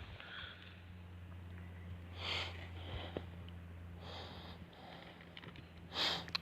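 Two short, sharp sniffs close to the microphone, about two and six seconds in, over a steady low hum. Faint scattered crackles come from a small tinder fire just catching.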